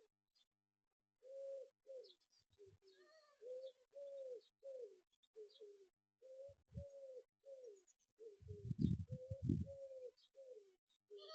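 Pigeons cooing: a steady run of short, low coos, many falling in pitch. A louder burst of low thumps comes about three-quarters of the way through.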